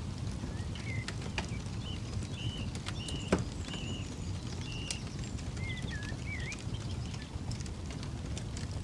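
Campfire crackling with scattered sharp pops, one louder pop about three and a half seconds in, while birds chirp short repeated notes throughout over a low steady rumble.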